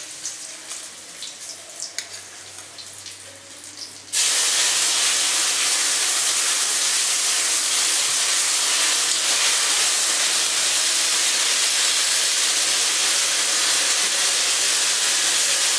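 Spices frying gently in oil in a steel karahi with small crackles, then about four seconds in ginger paste hits the hot oil and a loud, steady sizzle starts and keeps going.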